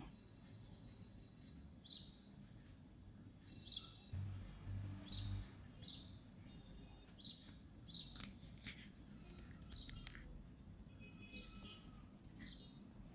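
A bird chirping: short high chirps repeating every second or two. Three low thuds come about four to five seconds in, and a few sharp clicks follow a little past the middle.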